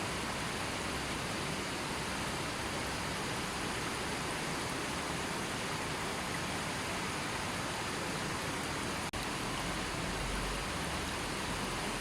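A gently flowing river: steady rushing water. There is a brief dropout in the sound about nine seconds in.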